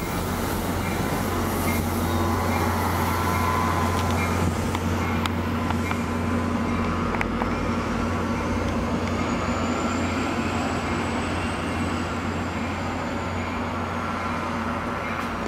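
New Jersey Transit commuter train of passenger coaches rolling past a level crossing, with the cab car at the rear going by. The running noise swells a few seconds in and then eases off slightly as the train draws away, and the crossing's warning bell rings over it.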